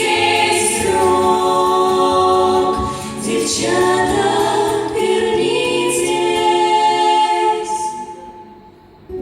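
Vocal ensemble singing the closing held chords of a waltz song, the notes changing every second or two, then dying away about eight seconds in.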